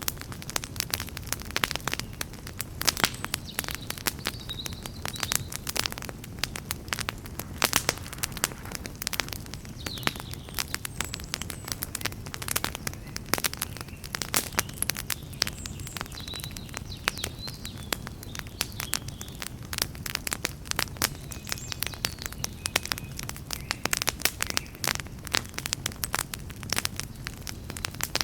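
Wood campfire burning, crackling continuously with frequent sharp, irregular pops over a steady low rumble of the flames.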